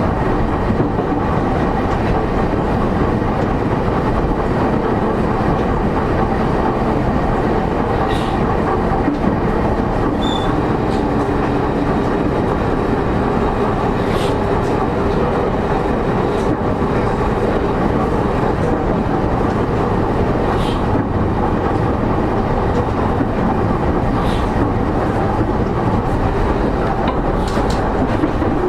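Running noise inside a motor car of a JR East E231-0 series commuter train: a steady, loud rumble of wheels on rail with faint steady motor tones and occasional sharp clicks.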